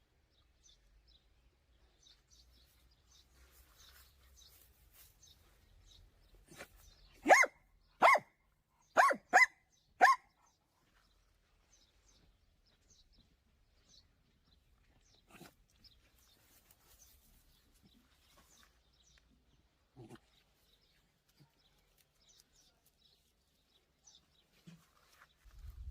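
A dog barking five times in quick succession, about seven seconds in, the barks being the loudest sounds; otherwise quiet outdoor background with faint small clicks.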